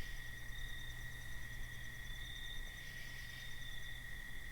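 Night insect chorus of crickets: a steady high trill, with a faster, evenly pulsing chirp above it. A faint low hum lies underneath and stops about four seconds in.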